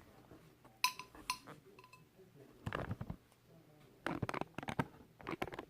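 Handling noise as a plastic bag is fitted over a shower head: two short ringing clinks about a second in, then three bursts of rustling.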